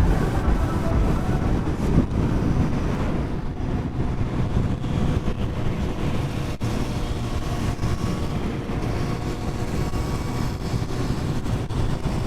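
Royal Enfield Continental GT 650's parallel-twin engine running steadily under way on the road, with the engine note shifting a little as the throttle changes.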